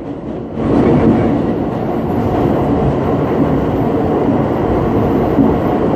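Bombardier R62A subway car running on the shuttle track, heard from inside the car: a steady rumble of wheels and motors that grows louder about half a second in.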